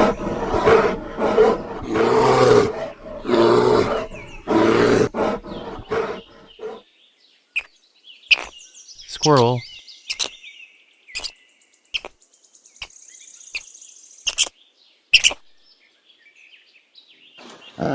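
A bear's deep growling calls, repeating about once a second and stopping about seven seconds in. Then a squirrel's sharp, high chirps and clicks, scattered and intermittent.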